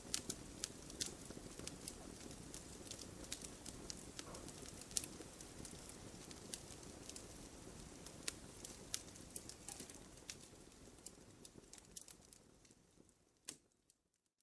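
Wood campfire crackling, with frequent sharp pops over a low, steady rush of burning. It fades out gradually near the end, with one last pop just before it goes quiet.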